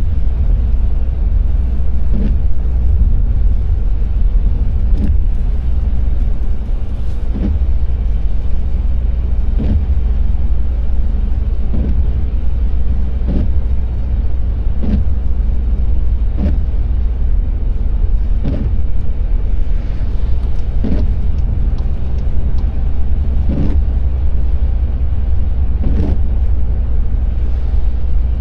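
Car driving on a wet road: steady low road and engine rumble, with a short knock every two seconds or so.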